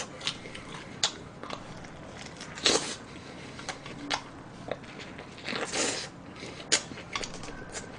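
Close-up eating of a fried chicken-fillet burger with lettuce: bites and chewing, with wet mouth clicks and ticks and two louder crunchy bursts, about three seconds in and near six seconds.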